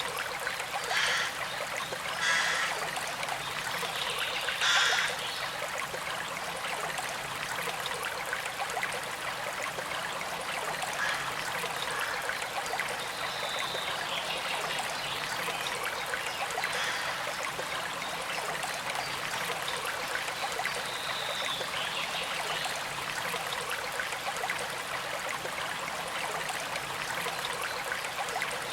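Small creek flowing steadily with a gentle trickle, with three brief louder splashes in the first five seconds.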